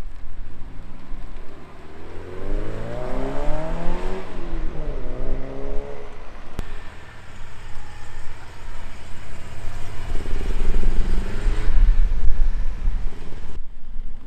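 A car accelerating away with its exhaust note climbing in pitch, dropping at a gear change and climbing again. After that comes a deeper engine rumble as another car pulls off.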